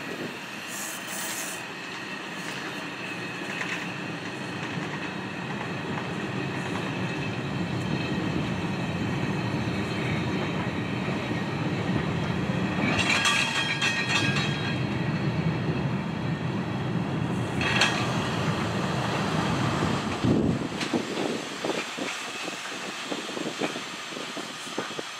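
A train passing on the rails: a wheel rumble growing louder, with a brief squeal of wheels about 13 seconds in. The deep rumble stops suddenly after about 20 seconds, leaving a lighter, uneven clatter of wheels.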